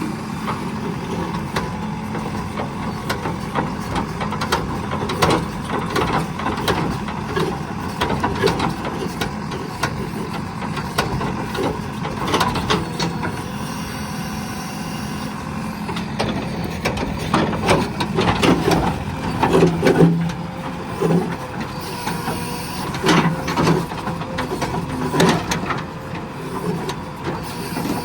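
JCB 3DX Plus backhoe loader's diesel engine running steadily, with repeated metal knocks and clanks from the machine and its load, coming more often in the second half.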